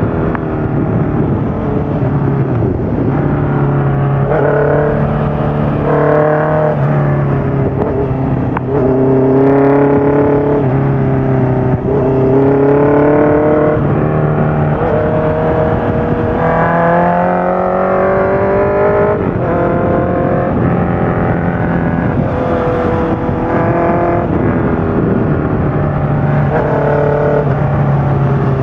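Honda CBR650F inline-four running through a full Akrapovic exhaust system with the dB killer fitted, its revs climbing and falling again several times.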